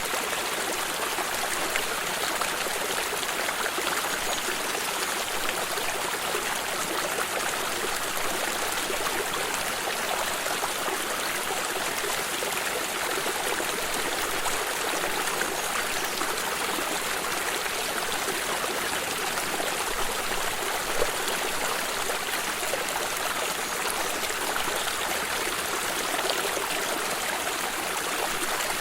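Water in a stream running and trickling, a steady rushing with small splashes.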